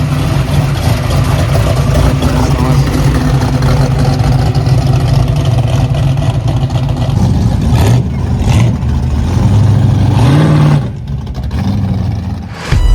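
Car engine running with a steady low note, then revving up about ten seconds in before cutting off abruptly near the end.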